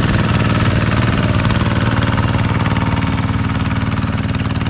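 Kubota NT131 two-wheel hand tractor's single-cylinder diesel engine running at a steady speed, with a fast, even pulse.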